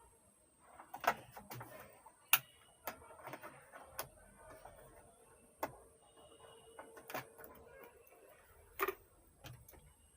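Irregular sharp clicks and taps, about eight of them, spaced unevenly: handling noise as a line cable is connected to an amplifier on the workbench.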